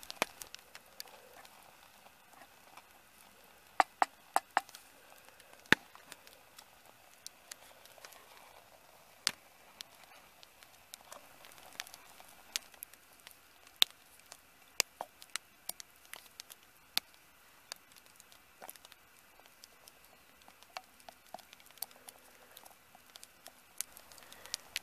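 Wood fire burning between two thick logs, crackling with sharp, irregular pops over a faint hiss.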